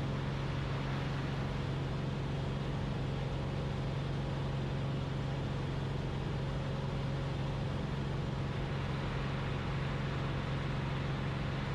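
Cessna 172RG's four-cylinder Lycoming O-360 engine and propeller droning steadily at climb power, heard inside the cabin.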